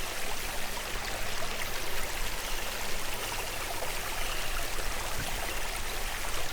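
Steady rush of flowing water, as of a stream.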